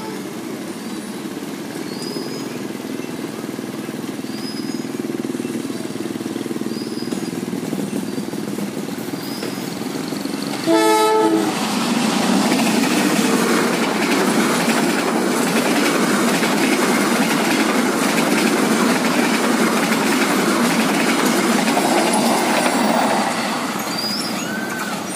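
Diesel-hauled passenger train approaching an unguarded level crossing. About halfway through its locomotive sounds one short horn blast, then the locomotive and carriages run past close by for about ten seconds before the noise eases off.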